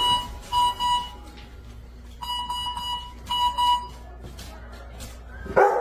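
An electronic alarm beeping: quick runs of short, high, pure-toned beeps, repeated in groups with pauses between them. A short loud sound comes near the end.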